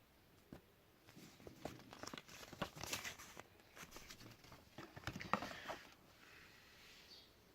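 Packaging being handled and unwrapped: crinkling and rustling with small clicks and taps for about five seconds, then a fainter rustle that dies away near the end.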